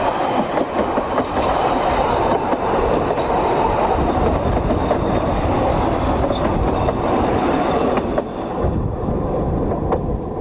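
A train rolling past, its wheels running over the track, loud and steady until it eases off about nine seconds in.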